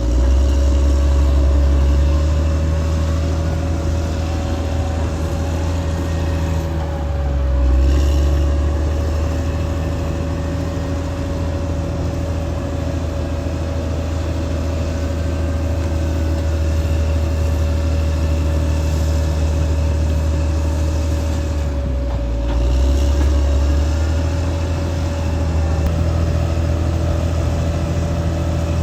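Caterpillar D6R XL bulldozer's diesel engine running steadily under load, with a steady whine over the rumble; the engine swells twice, about seven seconds in and again near twenty-two seconds.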